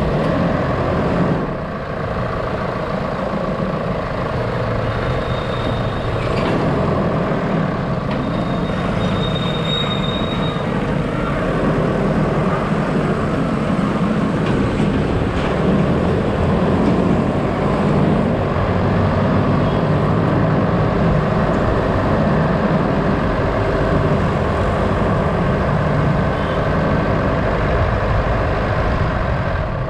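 A vehicle driving on a road: steady engine and road noise, with a brief high squeal around ten seconds in.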